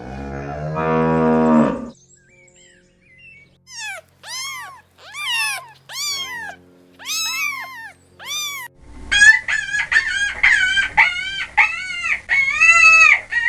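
A cow moos once, a long low call that ends about two seconds in. Then a series of separate high-pitched animal calls, each rising and falling, gives way about nine seconds in to a faster run of similar calls.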